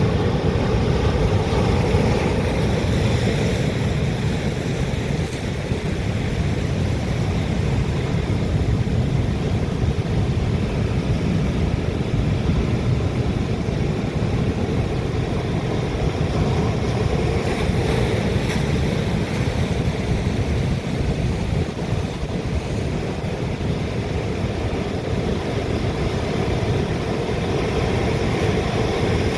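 Atlantic sea waves breaking on rocks: a steady wash of surf, heaviest in the low end, with no single crash standing out above the rest. Wind buffets the microphone.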